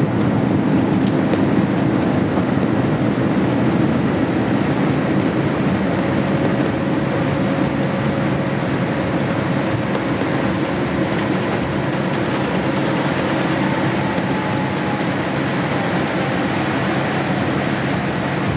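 Boeing 787-8 cabin noise heard from a forward seat on the ground after landing: a steady rumble of engines, wheels and airframe, slowly easing as the jet slows. A faint whine runs through the middle.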